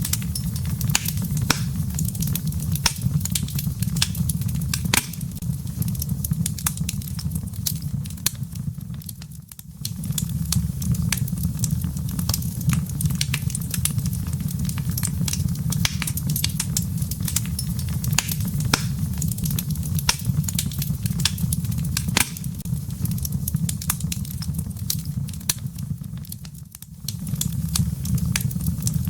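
Wood fire crackling in a fireplace: frequent sharp pops and snaps of burning firewood over a steady low rumble of the flames. The whole sound dips briefly twice.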